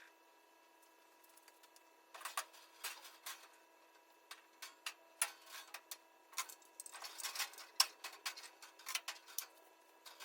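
Irregular light clicks and taps of hand work on tools and parts, coming in quick clusters from about two seconds in, over a faint steady electrical hum.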